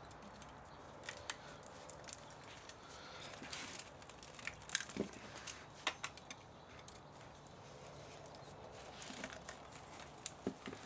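Irregular clicks, snips and scrapes of hand tools working on an old spa motor as it is taken apart for scrap metal.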